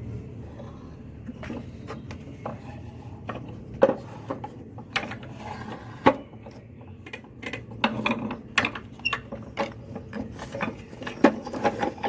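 Small wooden plywood parts clicking and knocking as they are handled, in irregular sharp taps that grow more frequent about halfway through, over a low steady hum.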